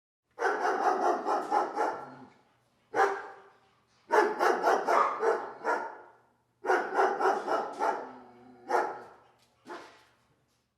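A dog barking in fast volleys, several runs of rapid barks a few a second, with single barks between them and short silent pauses.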